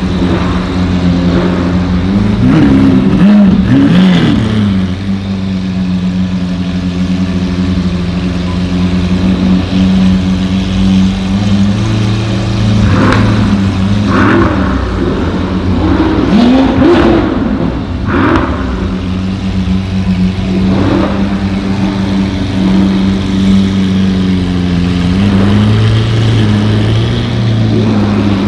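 Supercar engines, the Capristo-exhausted V12 of a Lamborghini Aventador SV among them, idling in slow traffic inside a road tunnel: a steady deep drone, with one rev about three seconds in and several short throttle blips between about 13 and 21 seconds.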